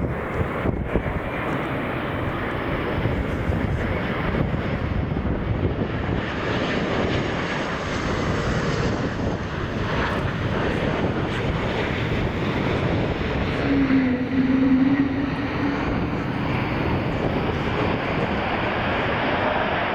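Aircraft engines running loud and steady as an airliner moves on the runway, with a brief low hum rising out of the noise about fourteen seconds in.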